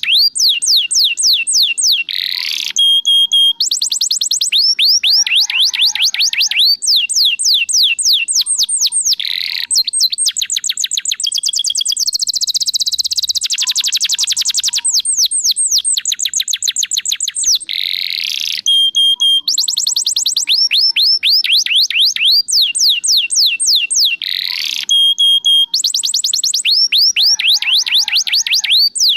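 Domestic canary singing a loud, continuous song of rapid trills: runs of fast sweeping notes repeated many times a second, broken by short held whistles and a dense rolling trill about halfway through. It is the full, non-stop song with a varied repertoire of learned notes.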